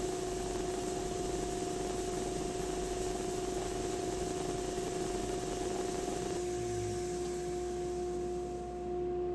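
A steady electric power-tool motor running: a broad hiss over a constant humming whine. The hiss fades away near the end while the hum continues.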